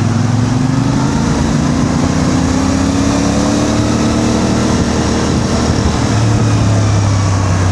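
CF Moto 450MT parallel-twin motorcycle engine running at low speed in slow, dense traffic. Its pitch rises slowly through the middle as it picks up a little speed, over steady engine and road noise from the vehicles around it.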